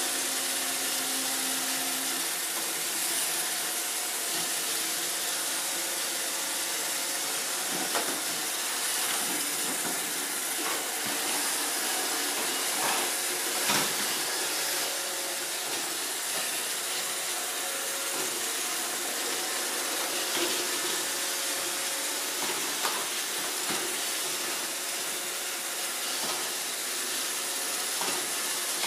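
Roomba robot vacuum running steadily, a constant whirring hiss from its motor and brushes, with a few short sharp knocks here and there.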